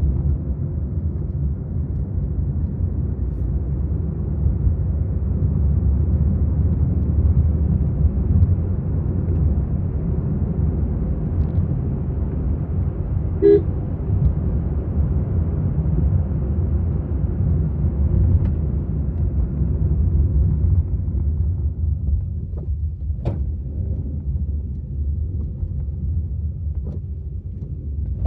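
Maruti Suzuki Swift being driven: a steady low rumble of engine and road noise, with two short horn toots, one at the start and one about halfway through, and a few faint clicks near the end.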